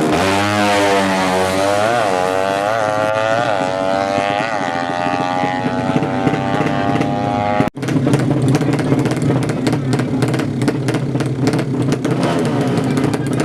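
A 200cc four-stroke moped-based drag bike engine accelerating hard, its pitch climbing with several brief dips at the gear shifts. After a sudden cut about two-thirds of the way in, a rougher, crackly engine sound holds a steadier pitch.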